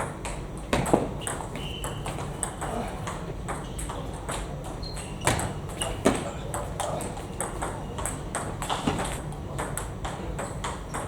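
Table tennis ball clicking off bats and table during play, many sharp clicks at an irregular pace.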